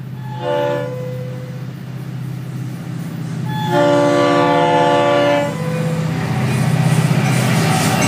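Freight train's lead diesel locomotive, an EMD GP-series unit, sounding its multi-note air horn: a short blast about half a second in, then a longer blast of about two seconds. Low diesel engine rumble throughout, growing louder with wheel and rail noise near the end as the locomotives come by.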